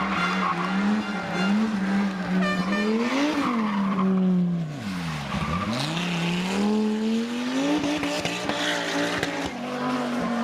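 Rally car engine at high revs, its note rising, then dropping steeply about five seconds in and climbing straight back up as the driver lifts and gets back on the throttle.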